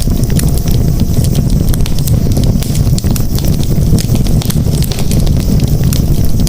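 Wood campfire burning: a steady low rumble of flames with many small, irregular crackles.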